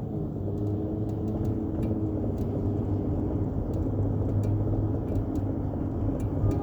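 Motor vehicle under way: a steady low engine and road hum with a few pitched tones drifting slowly up and down.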